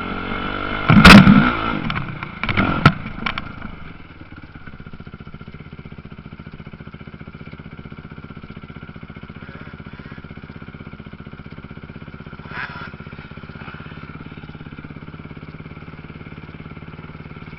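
Motocross motorcycle engines running, with a loud burst about a second in and another near three seconds, then a steadier, quieter engine drone.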